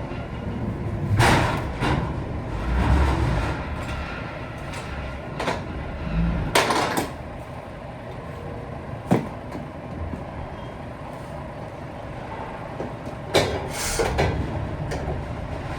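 Heavy truck running with a steady low rumble, punctuated by irregular clunks and rattles, the loudest about a second in and near the end.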